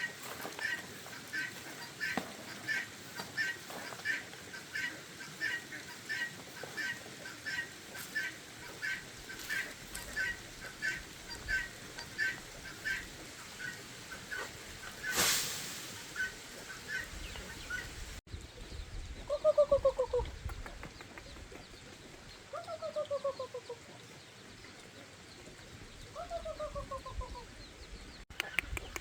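Farm poultry calling: a long run of short, evenly repeated calls about twice a second, broken once by a brief rush of noise. After a cut come three longer calls, each falling in pitch.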